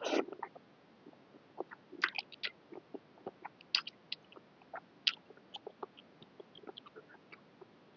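Close-miked chewing of a mouthful of boat noodles with braised pork: a short louder wet slurp-like sound right at the start, then many irregular small mouth clicks and smacks.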